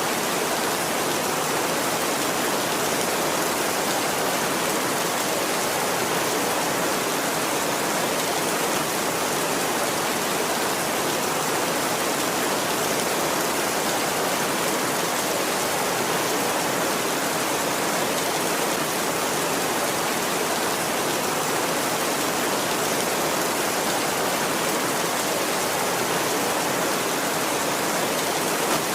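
Steady heavy rain, an even hiss of falling water with no thunder.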